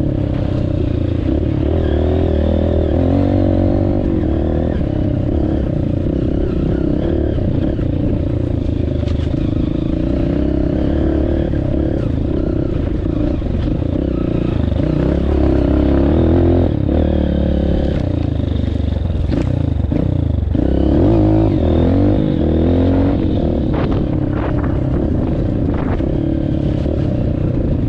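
Honda CRF230F's air-cooled single-cylinder four-stroke engine running under changing throttle, its pitch rising and falling. A few clattering knocks come in the later part.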